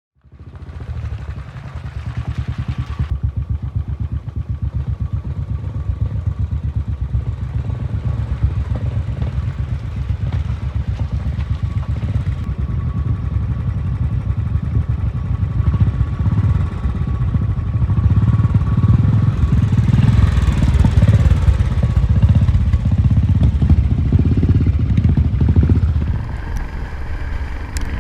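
Motorcycle engine running on the move, a steady low engine beat that grows louder about halfway through.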